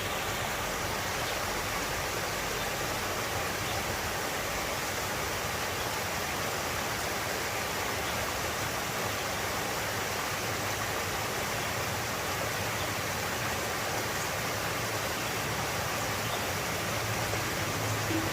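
Steady rushing of flowing stream water, an even continuous wash of sound. A faint low hum comes in near the end.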